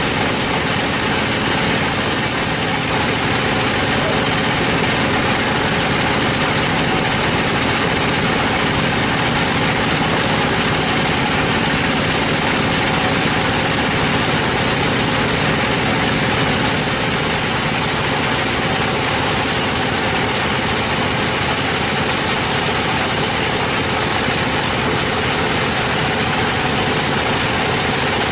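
Sawmill machinery running: a steady, even engine drone with no pauses or changes.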